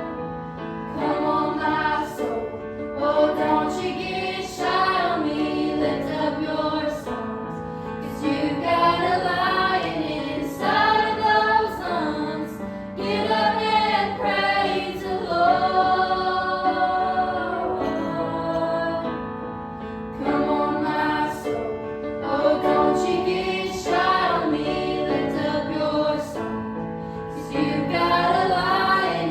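A youth choir singing a hymn-like song, with held accompaniment notes underneath the sung phrases.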